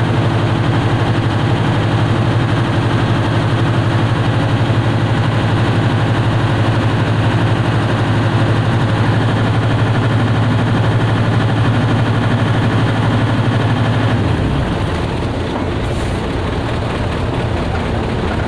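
A heavy engine running steadily with a deep, even hum; about fourteen seconds in the hum drops away as the engine eases off.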